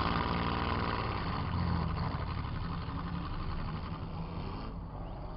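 Demolition derby car's engine revving hard, heard from inside the car, easing off near the end.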